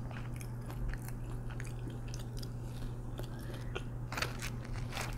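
Close-miked chewing of sauce-dipped waffle fries: soft crunching and wet mouth clicks, thicker about four seconds in, over a steady low hum.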